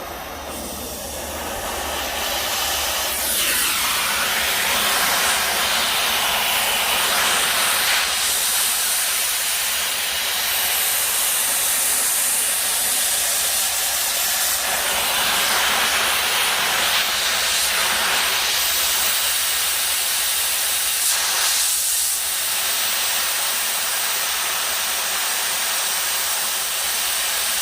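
Oxygen cutting torch cutting through steel plate: a steady, loud hiss of the gas jet, building up over the first couple of seconds and then holding even.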